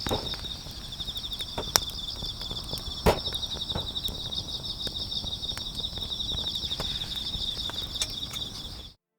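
Crickets chirping in a steady, fast-pulsing high trill, with a few sharp pops from a wood campfire, the loudest about three seconds in; all sound cuts off abruptly near the end.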